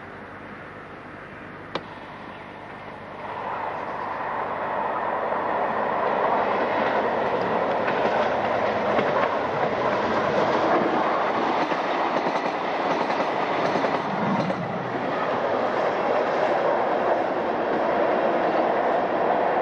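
A railcar approaching and running through the station: its running noise swells about three seconds in and stays loud and steady, with faint clacking of wheels over rail joints. A single sharp click comes just before this, about two seconds in.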